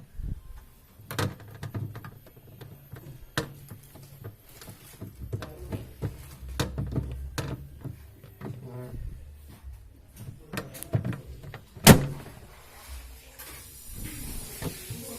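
Irregular clicks, knocks and rattles of parts being handled during hands-on repair work, with one sharp, loud click about twelve seconds in.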